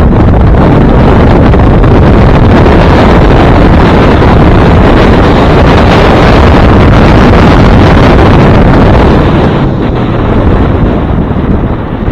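Heavy wind buffeting on an action camera's microphone as a Hyundai Elantra N is driven hard on an autocross run. The wind is very loud and drowns out the car, whose engine shows only as a steady low drone beneath it; it eases a little near the end.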